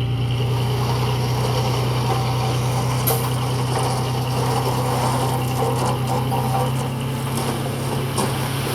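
Heavy diesel earthmoving machine engine running steadily under load, with a rough grinding texture and two short sharp knocks, about three seconds in and near the end.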